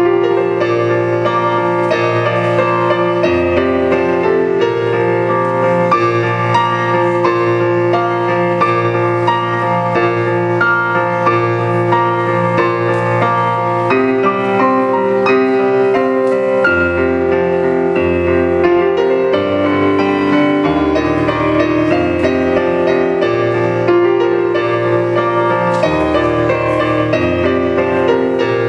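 Solo piano playing without a break: a steady stream of notes over bass notes that change every second or few.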